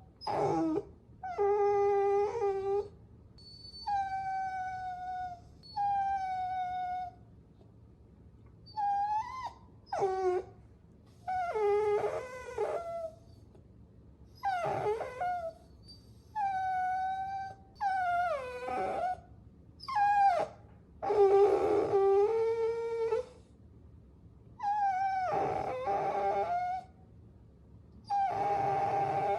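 Puppies whining: a run of about fifteen drawn-out whimpers with short pauses between them, some sliding in pitch, and now and then two whines overlapping.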